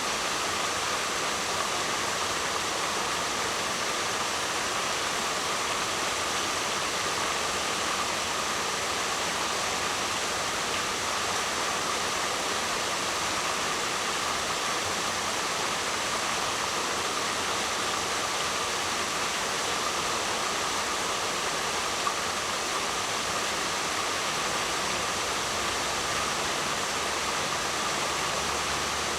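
Waterfall: a steady rush of falling water, an even hiss that neither swells nor breaks.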